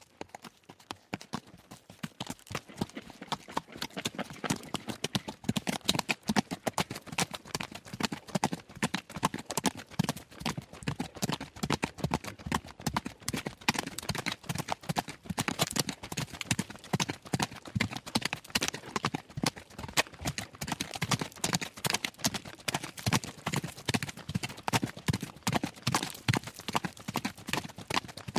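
A horse galloping fast on gravel: a rapid, dense run of hoofbeats that grows louder over the first five seconds or so, then holds a steady pace.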